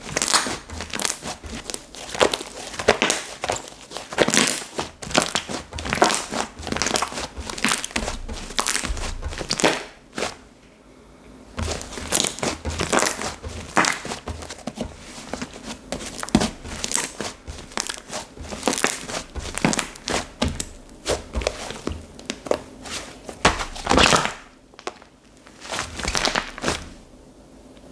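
Slime being squeezed, pressed and stretched by hand, giving a dense run of quick crackles and clicks, with a short lull about ten seconds in.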